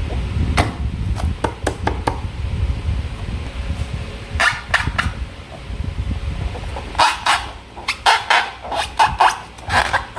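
Hands squeezing and working slime: scattered sticky clicks, then clusters of short wet squelches about four and a half seconds in and again, more densely, from about seven seconds on.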